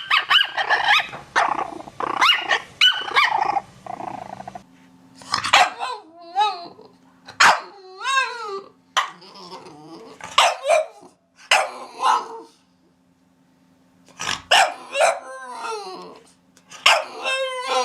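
Dogs barking in quick volleys, mixed with whining cries that bend up and down in pitch. The recording changes to another one about four and a half seconds in, and there is a short pause about thirteen seconds in.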